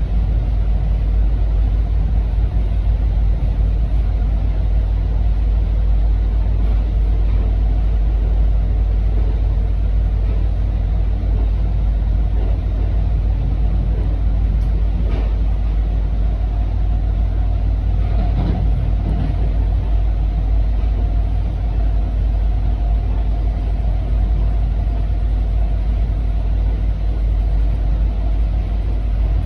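Steady low rumble of an MBTA commuter rail train running at speed, heard from inside a passenger coach. A faint steady whine joins the rumble about two-thirds of the way in.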